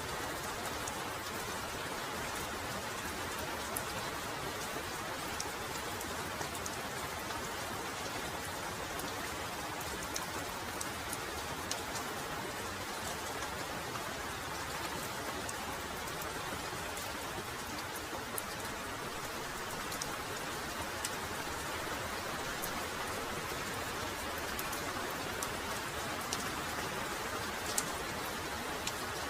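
Heavy rain falling steadily, a dense even hiss with individual drops ticking sharply here and there.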